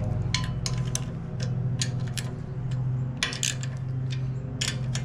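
Lawn mower engine running steadily across the street, a low even drone, with irregular sharp metallic clicks and clinks of hand tools close by.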